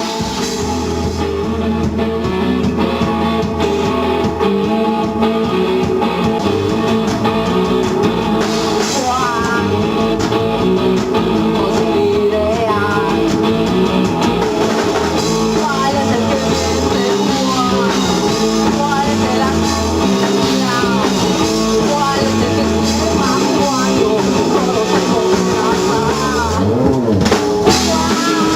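Rock band playing: guitars, bass and drum kit, with a voice singing over them.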